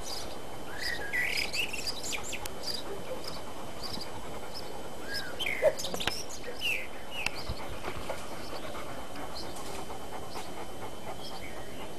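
Garden birds chirping and calling over and over, with short high chirps and a few rising and falling whistles. A single short click sounds about halfway through.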